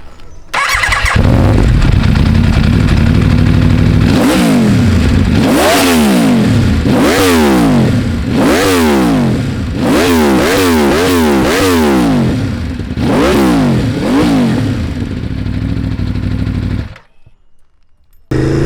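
Aprilia RSV4 RF superbike's V4 engine, loud through a stock exhaust on a remapped ECU, starting about half a second in and idling, then blipped sharply over and over in quick succession, each rev rising and falling back, before settling to idle again. The sound cuts off suddenly about a second before the end.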